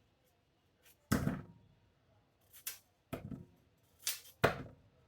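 Large kitchen knife chopping raw potato on a chopping board: a handful of sharp, irregular knocks, three of them loud.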